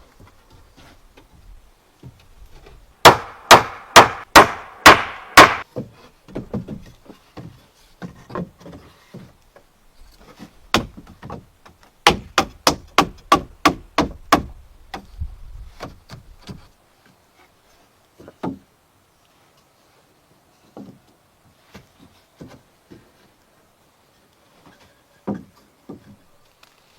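Hammer blows on wood: a run of about seven loud strikes a few seconds in, then a faster run of about a dozen strikes near the middle, followed by scattered lighter knocks.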